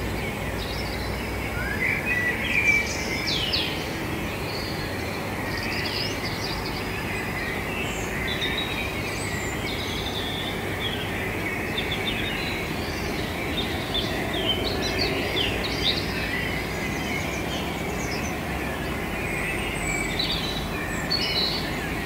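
Several small birds chirping with many quick, high calls, over a steady background noise.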